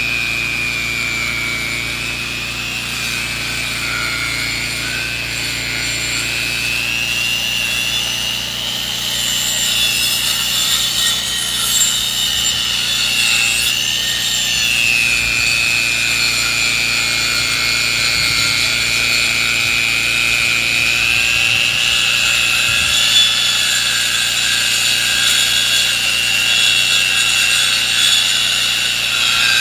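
Saw milling a log into lumber: a continuous high whine that wavers gently in pitch over a steady low hum, growing a little louder after several seconds.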